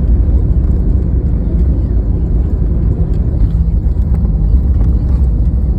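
Steady, loud low rumble of a passenger jet heard from inside the cabin.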